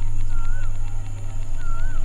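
A low steady drone in the film's background score, with a bird's short up-and-down whistle heard twice over it.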